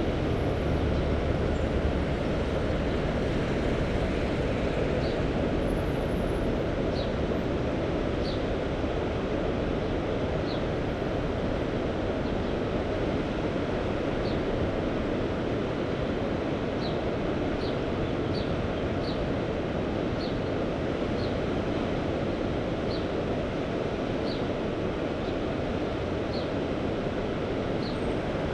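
Steady rush of sea waves and surf, with wind buffeting the microphone. Short, faint, high chirps come every second or so.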